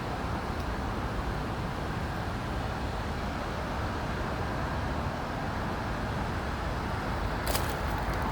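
Steady hum of road traffic passing, with a few short crunching steps near the end.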